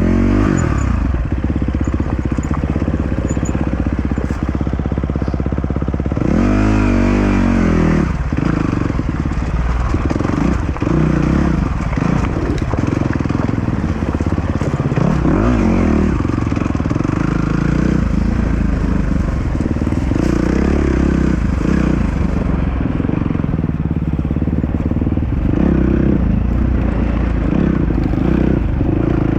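Dirt bike engine running under changing throttle, its pitch rising and falling; one clear rev up and back down comes about six seconds in.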